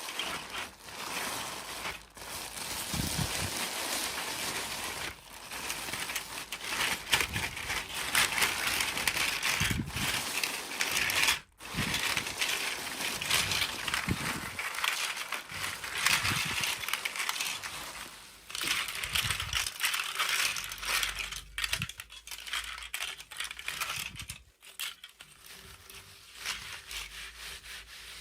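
Plastic toy packaging crinkling and crackling as it is handled and opened, with many small clicks.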